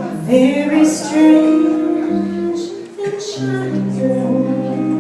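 Female jazz vocalist singing a slow ballad with guitar and bass accompaniment, the voice sliding up into a note early on.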